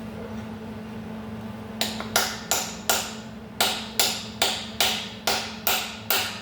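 Hammer blows on metal in an even rhythm, about two or three a second, starting about two seconds in, each with a short ring; the blows are part of freeing rusted, broken exhaust manifold studs. A steady low hum runs underneath.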